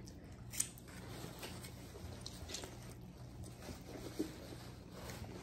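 Soft chewing and mouth sounds of burgers being eaten, with a few faint wet clicks over a low steady room hum.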